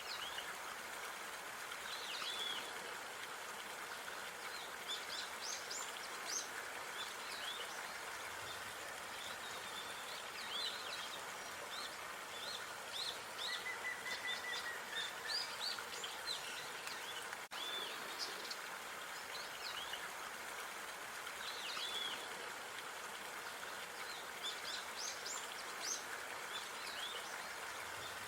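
Small birds chirping and calling throughout, with short high chirps, repeated arched calls and a brief warbling trill about halfway, over a steady background hiss of outdoor park ambience.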